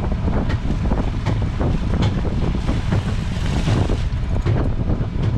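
Wind buffeting the microphone on a boat at sea, a heavy continuous low rumble. Scattered short knocks run through it, and a brief hiss swells and fades about three to four seconds in.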